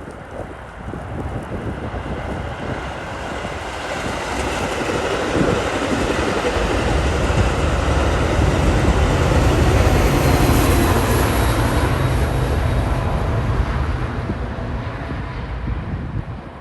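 Metra commuter train passing: a steady rumble of wheels on rails with a rushing hiss, building to its loudest about ten seconds in and then fading.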